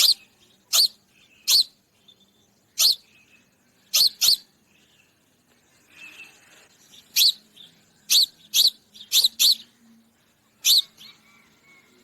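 A sparrow chirping: about a dozen single, sharp cheeps at irregular intervals, some in quick pairs, with a pause of a few seconds midway.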